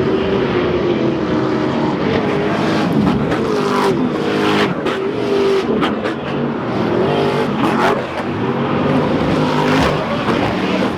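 Off-road race truck engines running hard, the pitch rising and falling again and again as the throttle is worked, with several sharp knocks mixed in.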